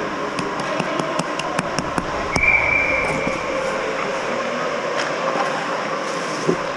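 Steady hollow rink noise in an ice hockey arena, with a quick run of sharp clicks in the first two seconds and a brief thin high tone about two and a half seconds in.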